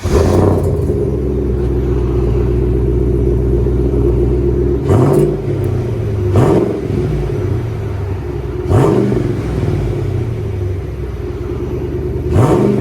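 Chevy 5.3 L V8 running through a custom single 2¼-inch exhaust with a Vibrant bottle resonator and 4-inch tip. The engine comes in loud at the start and idles steadily, then is revved four times, each rev rising sharply and dropping back to idle.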